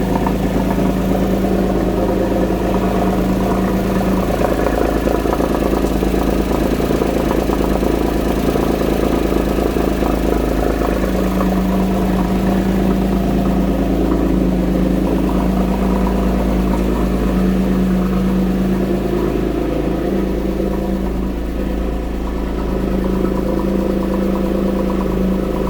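2005 Porsche 911 (997) 3.6-litre naturally aspirated M96 flat-six engine idling steadily while warming up after a cold start.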